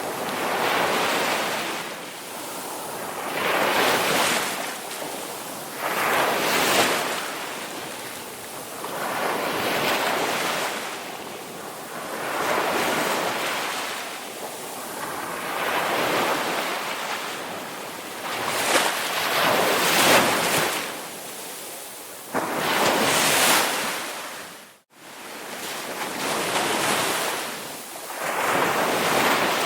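Ocean surf: waves washing in and drawing back, each swell of rushing water rising and falling about every two to three seconds. For an instant, about 25 seconds in, the sound drops out completely.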